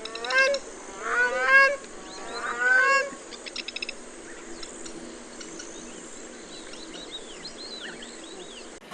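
Three loud honking calls from a large water bird, each rising slightly in pitch, then a quick rattle of clicks. After that come faint, scattered small-bird chirps over a steady high hiss of wetland ambience.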